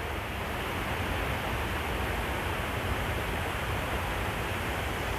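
Waterfall rushing steadily, an even noise of falling water with no breaks.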